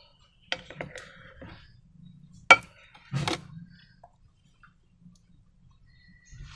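A few short clicks and knocks from hands working with slime-making materials and containers, the sharpest single click about two and a half seconds in, followed by a short rattling cluster.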